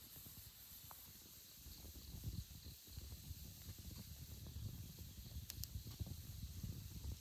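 A steady hiss over uneven low rumbling, with a couple of sharp clicks about five and a half seconds in.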